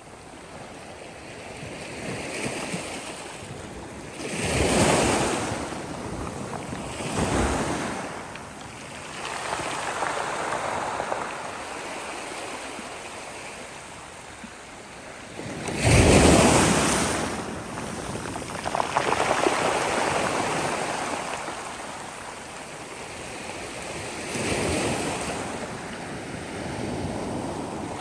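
Sea waves breaking and washing up the shore in rising and falling surges, with the loudest crash about halfway through.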